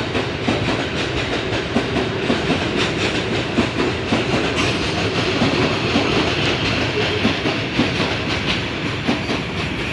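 Empty freight train wagons rolling past, the wheels clattering over the rail joints in a steady stream of clicks and rumble.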